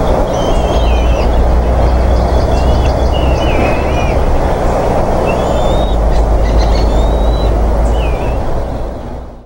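Short, wavering high whistled bird calls, about eight of them spread through, over a loud steady rumbling hiss. The sound fades out near the end.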